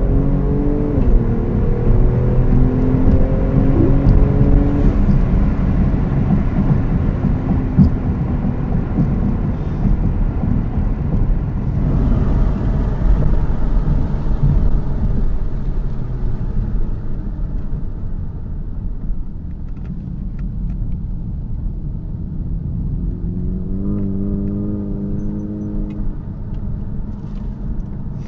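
Cars accelerating hard down a drag strip: the engine pitch climbs in steps as they shift gears, then the loud run fades away after about fifteen seconds. An engine revs up again near the end.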